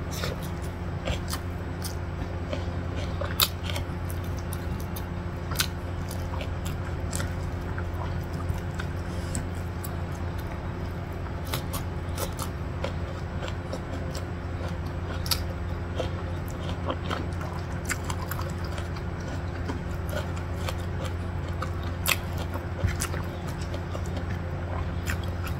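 Close-up chewing and mouth sounds of someone eating rice and stir-fried pak choy with egg by hand, with scattered short wet smacks and clicks, over a steady low hum.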